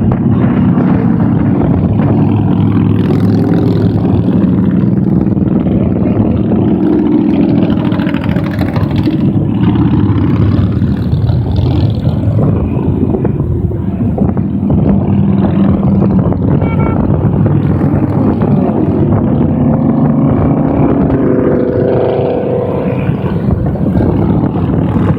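A procession of motorcycles riding past on a highway, many engines running together in a steady loud drone, rising and falling as the bikes go by.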